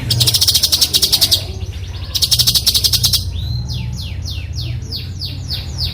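Cucak cungko giving harsh, rasping 'besetan' calls: two fast buzzy rattles of about a second each, then a quick run of about eight downward-sweeping notes. A steady low hum sits underneath.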